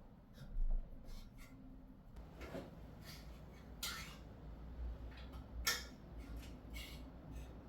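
Scattered light knocks and clicks of household objects being handled, the sharpest about half a second, four seconds and nearly six seconds in, over a faint low hum.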